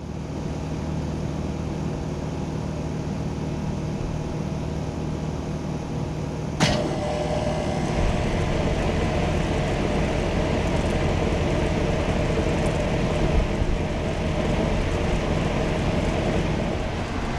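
2002 Amana Prestige II central air conditioner outdoor unit starting up: a steady hum, then a sharp click about six and a half seconds in, after which the unit's running sound grows louder and fuller, with a deeper low rumble building from about eight seconds on.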